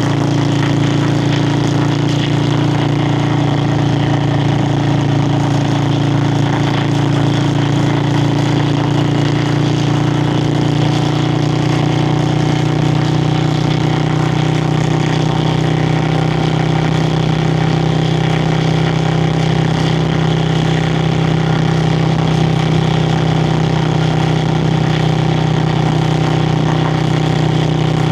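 Yamaha Virago XV535's air-cooled V-twin exhaust running steadily while riding, its pitch holding nearly constant, with wind noise over it.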